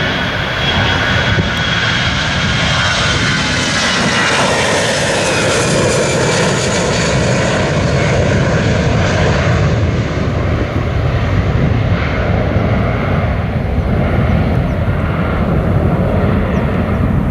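Jet airliner taking off at full thrust. The engines' high whine falls in pitch over the first few seconds as it passes, over a loud, steady rumble that carries on after it.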